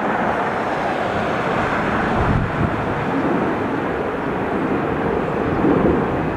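Jet engines of a large airliner, a steady, even rush of noise with no clear rise or fall.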